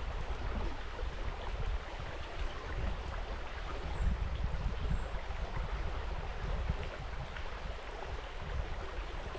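River water flowing steadily past, with uneven low rumble from wind on the microphone.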